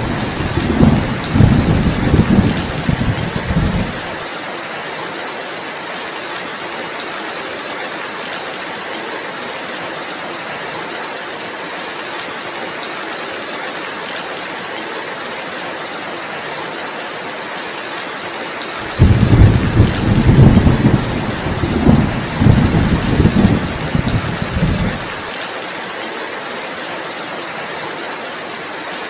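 Steady heavy rain, with deep rumbles of thunder. One rumble fades out in the first four seconds, and another swells in and lasts about six seconds later on.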